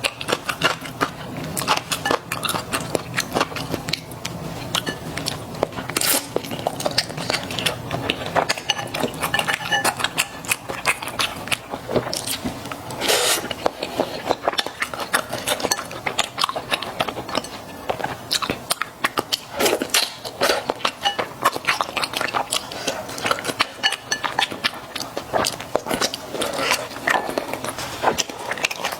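Close-miked eating of mala xiang guo with Chinese glass noodles: a dense, continuous run of wet chewing clicks and bites, with two longer noisy sounds about six and thirteen seconds in.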